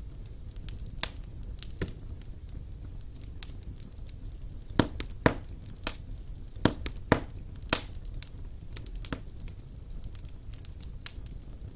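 Wood fire burning in a fireplace: irregular sharp crackles and pops over a low steady rumble, with a cluster of louder pops in the middle.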